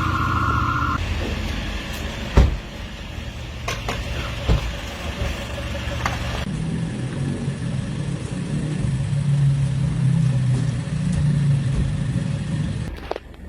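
Motor vehicle engines running amid street noise, with a couple of sharp knocks. A steady alarm tone stops about a second in.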